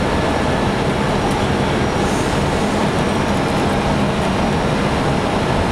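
Steady rush of airflow and engine noise in an Airbus A320 cockpit on final approach, even and unbroken throughout.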